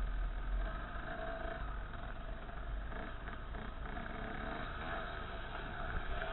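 Dirt bike engine running steadily on the move along a trail, its pitch wavering slightly with the throttle, with heavy low wind rumble on the microphone.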